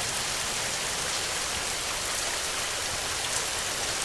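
Steady rain falling: an even hiss with a few scattered drop taps.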